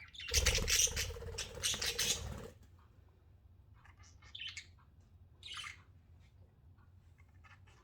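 Pet budgerigars chirping and squawking: a loud, harsh burst for about two seconds at the start, then scattered short high chirps and clicks.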